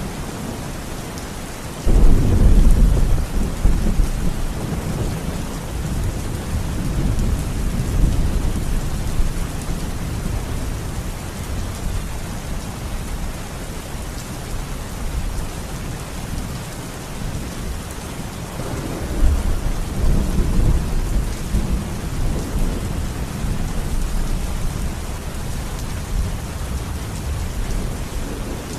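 Thunderstorm: steady rain with rolling thunder. A sudden clap about two seconds in rumbles on for several seconds, and a second rumble comes about two-thirds of the way through.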